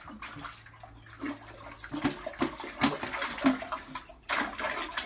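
Water splashing and sloshing in irregular bursts, with scattered knocks, growing busier about two seconds in and breaking off briefly near the end.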